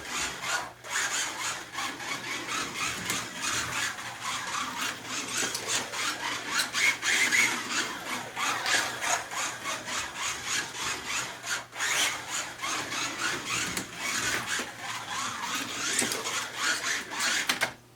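Slot car lapping a plastic track: a rasping electric motor and the car's rubbing contact with the track, swelling and fading as it comes around. The noise cuts off just before the end.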